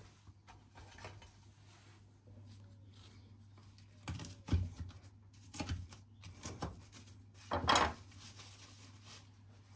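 Kitchen handling sounds: a few short knocks and clatters of dishes or utensils about halfway through, the longest near the end, over a low steady hum.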